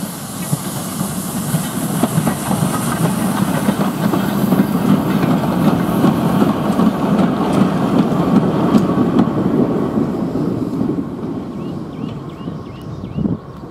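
Steam-hauled goods train of four-wheel open wagons and a brake van rolling past: a dense rumble with many wheel clicks on the rail joints. It grows louder as the wagons pass, then fades away near the end.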